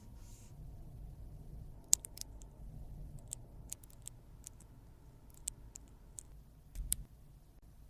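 Scattered small, sharp clicks and taps, about a dozen at uneven intervals, the loudest about two seconds in and near seven seconds in: makeup tools and containers being handled.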